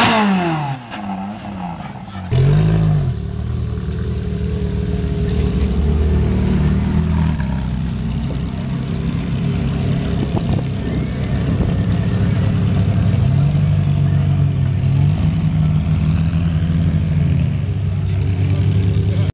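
Ferrari 458 Italia's 4.5-litre V8 revved hard once, the pitch shooting up and dropping back. After a sudden cut it runs steadily at low revs, with a few light blips of the throttle.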